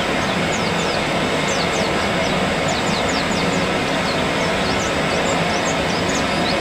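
White-eyes (pleci) chirping: many quick, high notes, each sliding sharply downward, over a steady, loud rushing noise.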